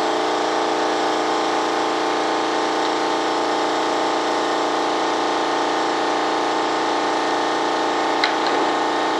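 Steady machine hum with several fixed tones, unchanging throughout, and a faint click about eight seconds in.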